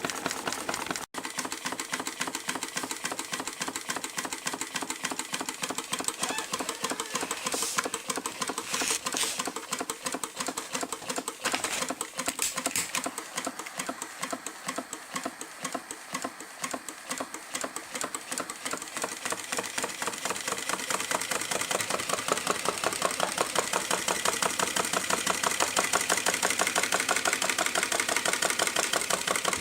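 Homemade Stirling engine running, its moving parts clicking in a fast, even rhythm that gets louder in the last third.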